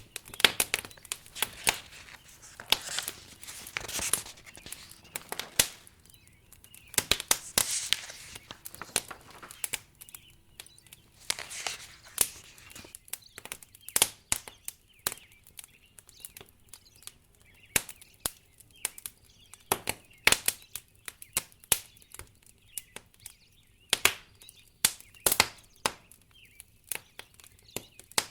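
Wood fire in a fireplace crackling, with sharp pops at irregular intervals and a few short hissing swells in the first dozen seconds.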